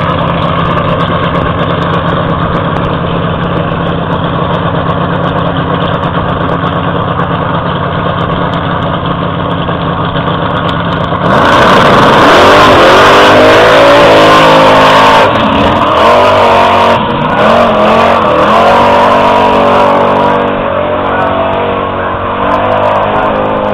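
Drag car engine idling steadily at the starting line, then launching at full throttle about halfway through, its pitch climbing and dropping several times with the gear changes as the car pulls away down the strip.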